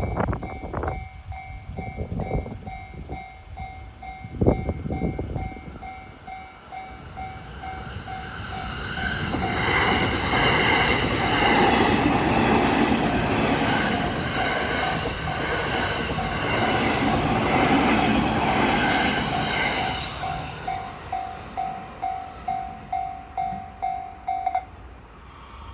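Japanese level crossing warning bell ringing in a steady pulse, about twice a second, while an E231 series electric commuter train runs through the crossing, its wheels and motors building to a loud rush that lasts about ten seconds and then fades. The bell stops shortly before the end, and a few low thumps come in the first five seconds.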